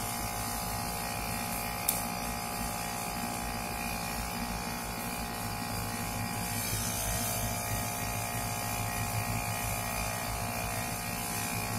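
Rooftop air-conditioning unit running with a steady buzzing hum. A single sharp click comes about two seconds in.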